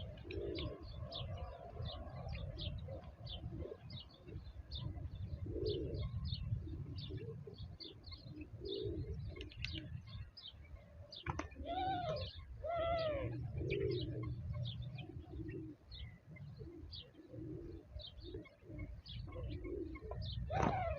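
Birds calling: low cooing calls and many quick high chirps, with two louder arching calls about twelve seconds in. A steady low rumble runs underneath.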